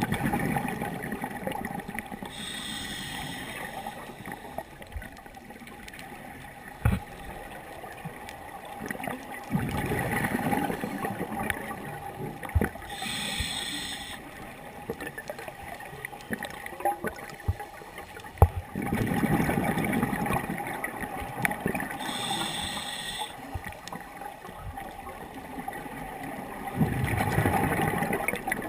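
Scuba diver breathing through a regulator underwater: three sharp hissing inhalations about ten seconds apart, each followed by a longer bubbling, gurgling exhalation. Scattered small clicks sound throughout.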